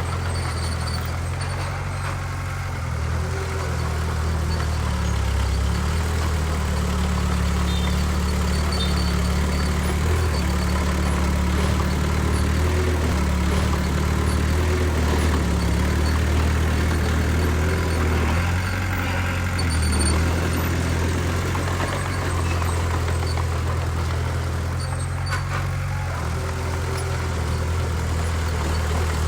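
Heavy diesel engine of earthmoving machinery running steadily, a low drone whose pitch shifts slightly now and then.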